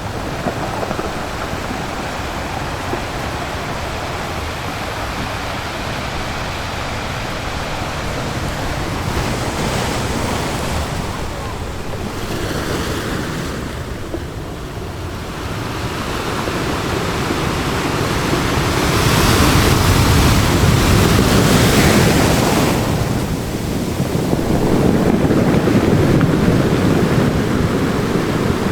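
Ocean surf breaking on a beach: a continuous wash of water noise that swells and recedes as waves crash, loudest about two-thirds of the way through.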